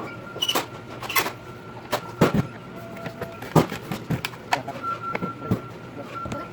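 Rapid, irregular knocks and clicks of grill parts and tools being handled during assembly, sped up.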